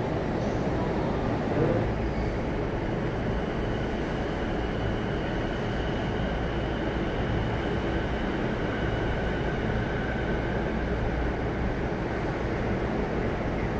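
Steady hum of a stationary JR East E233-1000 series electric train's onboard equipment heard from inside the car, with a faint high whine for several seconds in the middle. A brief bump about a second and a half in.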